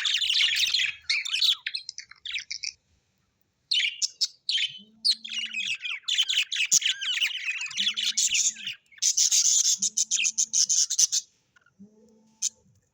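Parrots chirping and chattering in quick, dense runs of high notes, with a short break about three seconds in and a fast even run of chirps near the end.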